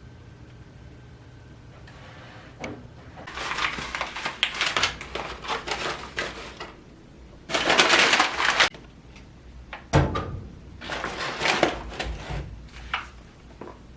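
Rustling and crinkling handling noises in several bursts, loudest about midway, with a sharp knock about ten seconds in and a few small clicks near the end.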